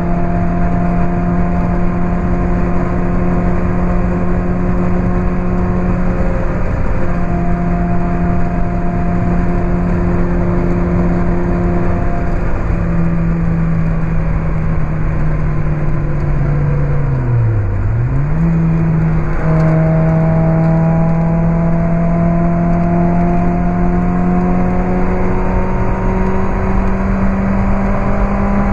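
Lotus Elise 111R's Toyota 2ZZ-GE four-cylinder engine, through a Larini Stage 2 exhaust, running hard at high revs under a steady rush of noise. About two-thirds of the way through, the pitch drops sharply and springs back, then drops again and climbs steadily as the car accelerates.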